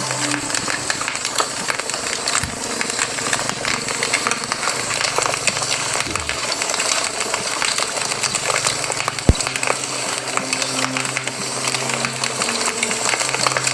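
Campfire burning: wood crackling and ticking over a steady hiss, with one sharp pop about nine seconds in.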